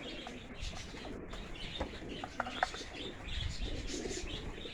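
Racing pigeons cooing softly, with a few short high chirps about halfway through.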